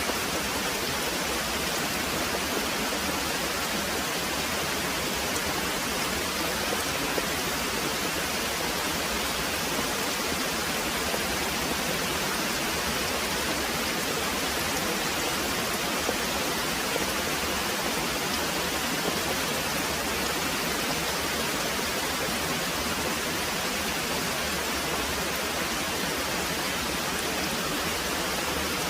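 Very heavy rain pouring steadily, a dense, even hiss with no let-up.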